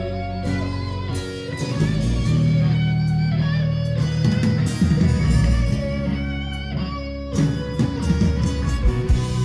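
Live band playing an instrumental passage of a song between sung lines, led by guitar over bass and drums.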